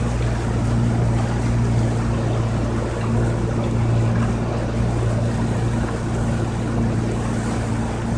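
Yamaha 115-horsepower two-stroke outboard motor running at a steady speed, with a constant low hum over the rush of water and wind as the boat moves across the lake.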